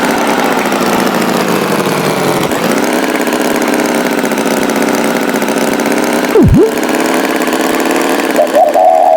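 Cartoon tractor engine sound effect, running steadily. A quick swooping effect dips down and back up once, and a short steady tone starts near the end.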